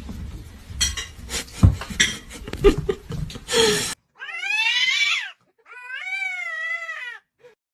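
A few seconds of scattered knocks and clatter, then a cat meows twice in two long calls, the first rising and falling in pitch.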